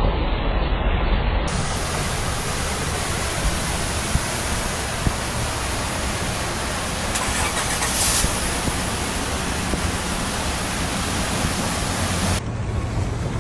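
Vehicle moving through floodwater: the engine runs under a steady rush of water noise, with abrupt changes in the sound about a second and a half in and near the end.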